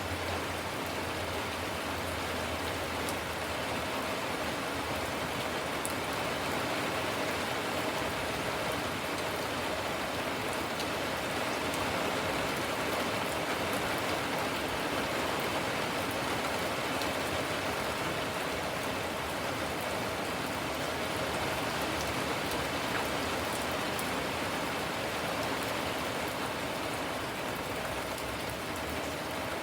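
Steady rain falling and pattering on surfaces, with faint scattered drip ticks.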